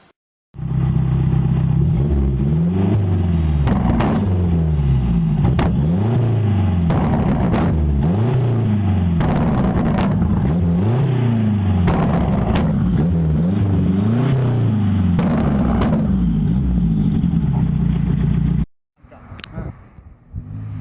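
Renault 5 turbo engine revved hard again and again, its pitch rising and falling in quick repeated sweeps, with sharp cracks from the exhaust at several of the peaks. It cuts off near the end, and a quieter engine sound follows.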